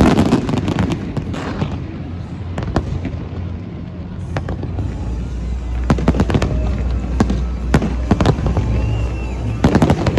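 Fireworks display: a dense run of bangs and crackles, easing off for a few seconds, then fresh clusters of sharp bursts in the second half.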